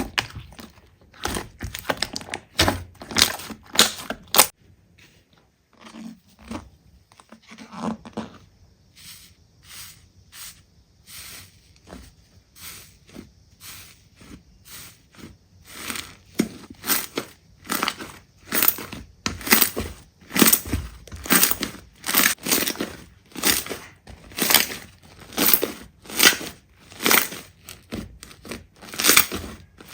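Slime being squeezed and pressed by hand, making repeated crackling, sticky squishes. It is quieter and sparser for a stretch in the middle, then settles into a steady run of squeezes at a little over one a second.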